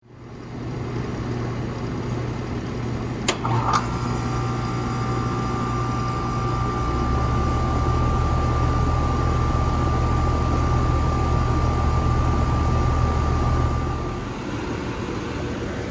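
A 2017 Carrier Comfort Series 2-ton central air conditioner starting up and running with a steady low hum. A sharp click comes about three seconds in, followed by a steady whine over the hum that stops shortly before the end.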